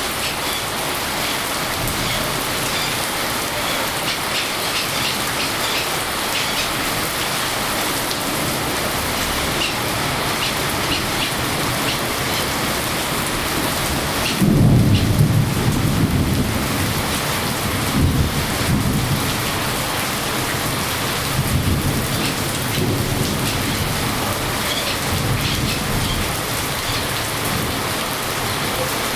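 Steady rain hissing down, with a low rumble of thunder that breaks in suddenly about halfway through and rolls on in several swells.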